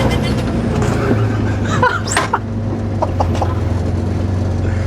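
John Deere combine harvester's diesel engine running with a steady low drone while being driven, with brief human vocal sounds about two seconds in.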